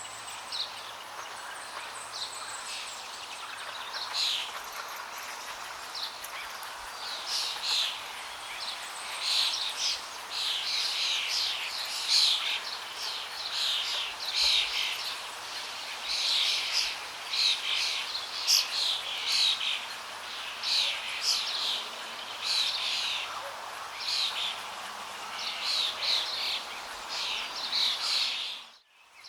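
Songbirds chirping in quick clusters of short, falling notes over a steady rush of flowing water. Everything cuts out for a moment near the end.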